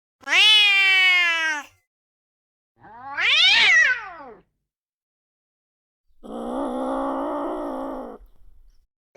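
Angry cat yowling: three long separate calls with silence between, the first falling slightly in pitch, the second rising then falling, the third lower and rougher.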